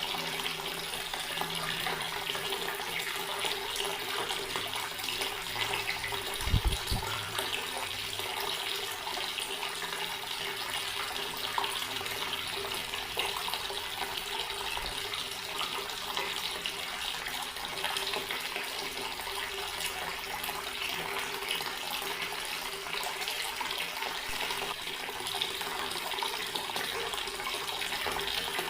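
Water running steadily from a tap and splashing into a basin. There is one brief low thump about six and a half seconds in.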